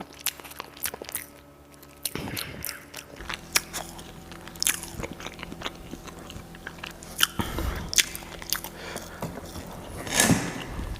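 Close-up eating sounds: a person biting and chewing food, with many short, sharp crunches at an irregular pace and a longer burst near the end.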